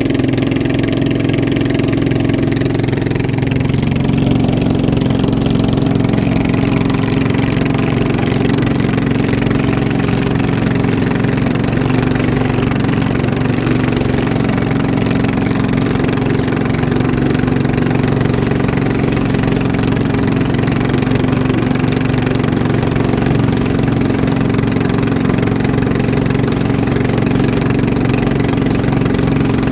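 Boat engine running loudly at a steady speed, its pitch holding constant.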